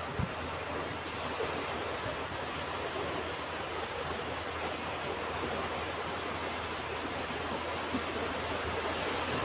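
Ocean surf washing onto a beach: a steady, even rush of waves.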